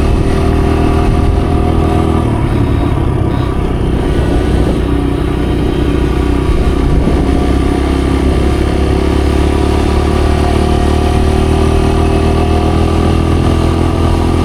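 Dirt bike engine running at a steady, even speed while riding, loud and close to the microphone.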